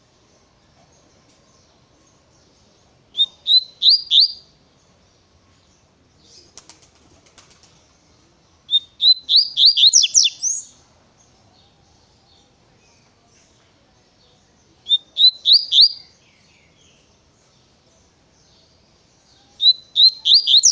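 Double-collared seedeater (coleiro) singing its fast 'tui-tui' song: four short phrases of quick, sweeping whistled notes, several seconds apart. A faint rustle comes between the first two phrases.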